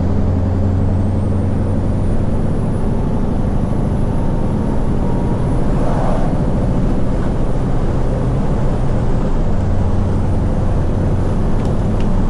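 Scania V8 lorry engine running steadily under way, a deep even hum. About halfway through there is a short rush of noise.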